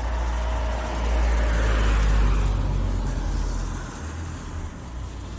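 A road vehicle passing by: a low rumble with tyre and engine noise that swells to its loudest about two seconds in and fades away.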